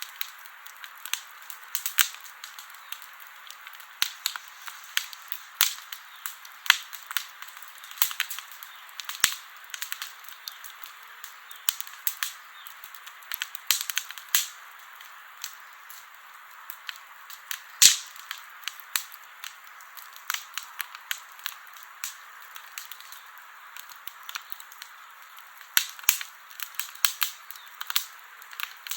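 Wood campfire crackling: irregular sharp pops and snaps over a steady soft hiss of burning, with one louder pop about two-thirds of the way through.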